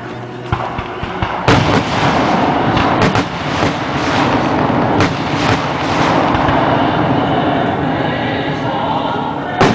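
Fireworks display shells bursting overhead: a string of sharp booms, the loudest about one and a half seconds in and another just before the end, with smaller bangs between.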